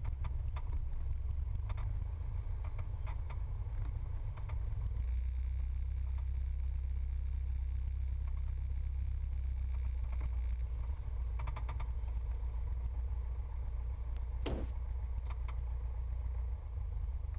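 Cessna 172's piston engine running at low power on the ground, a steady low drone, with one brief squeak about three-quarters of the way through.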